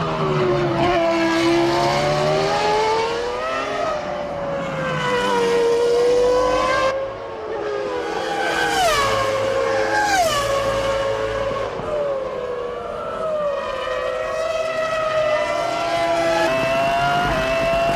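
Formula One cars' V10 engines at racing speed, pitch climbing and dropping with throttle and gear changes. Two cars sweep past with a quick fall in pitch about eight and ten seconds in.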